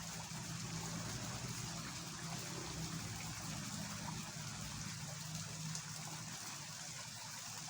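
Fast water rushing steadily through a small ditch swollen after a night of rain, with a low steady hum underneath.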